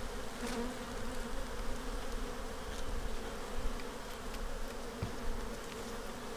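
Honeybees humming steadily around an open hive, with a few faint clicks of handling.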